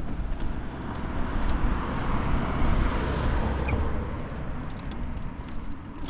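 A car passing by, its noise swelling to a peak about two to three seconds in and then fading away, over a steady low rumble.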